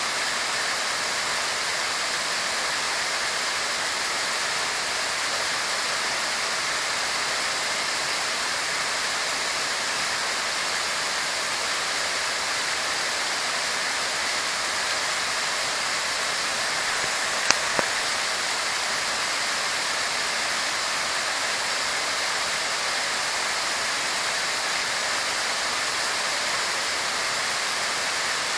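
Waterfall: falling water rushing in a steady, hissy roar. A couple of sharp clicks come quickly one after the other about two-thirds of the way through.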